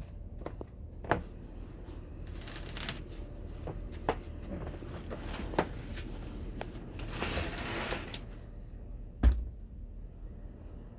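Steady low hum of a Tempstar central air conditioning system running on cool mode, with scattered knocks, rustling and a heavier thump about nine seconds in.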